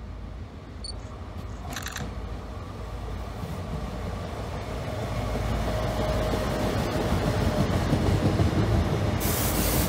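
Trenitalia Minuetto diesel multiple unit approaching and pulling in along the platform, its engine and wheels on the rails growing steadily louder as it nears. A brief pitched beep comes about two seconds in, and a burst of hiss near the end.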